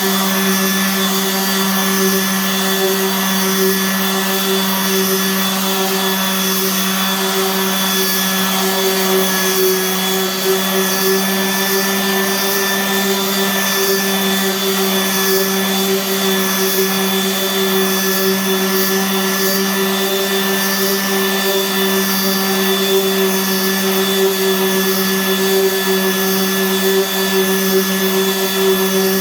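Power sander running steadily against a wood door during a light finishing pass, a constant motor hum over the rasp of the sandpaper.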